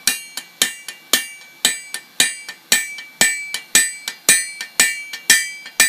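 Blacksmith's hammer striking a bar of O1 tool steel on the anvil in a steady rhythm of about two blows a second, each blow ringing with a bright metallic tone.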